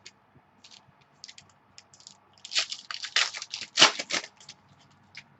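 Trading cards and their packaging being handled: a run of short scrapes and rustles, with a louder, busier stretch from about two and a half to four and a half seconds in.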